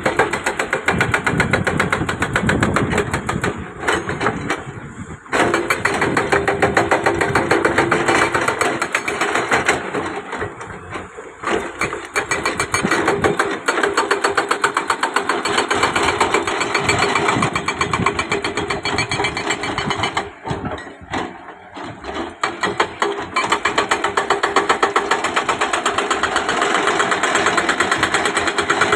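Excavator at work on a road construction site: a fast, even pulsing machine sound, easing briefly about 4, 11 and 21 seconds in.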